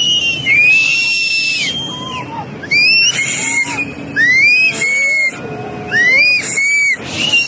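People screaming and shouting in a string of high-pitched cries, each rising and falling and lasting under a second, over a steady noisy rush.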